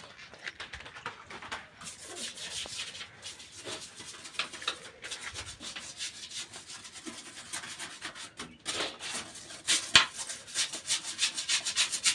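Scrubbing a hard washroom surface: rapid, repeated rubbing strokes at leftover cement marks, with a sharp knock about ten seconds in.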